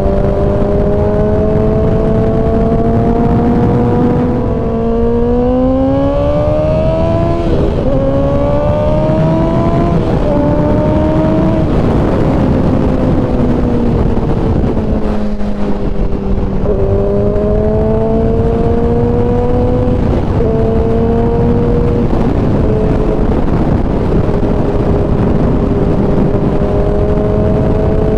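Kawasaki ZX-10R's inline-four engine pulling through the gears, its pitch climbing and dropping back at each upshift. It then winds down for a few seconds, accelerates through a couple more shifts, and settles to a steady cruise, all over a constant wind rush.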